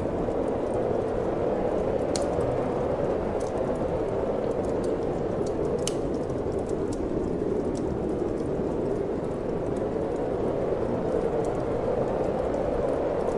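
Steady wind noise with a wood fire crackling in a fireplace: scattered sharp pops and snaps over the constant wind, the loudest pop about six seconds in.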